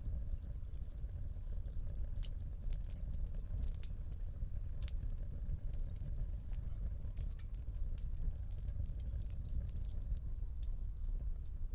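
Wood fire in a fireplace crackling, with many small irregular pops and snaps over a steady low rumble of burning.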